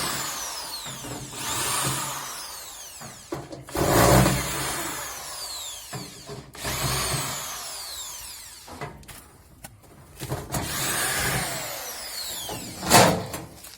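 Cordless drill-driver backing out screws on a washing machine's casing in several short runs, its motor whine falling in pitch as each run stops. A sharp knock near the end.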